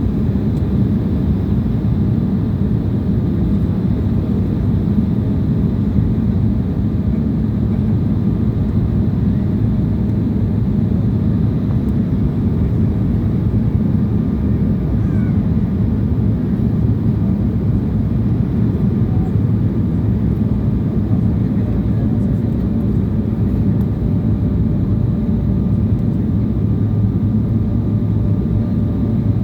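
Steady aircraft cabin noise: the even, unchanging rumble of a jet airliner in flight, with a few faint steady tones above it.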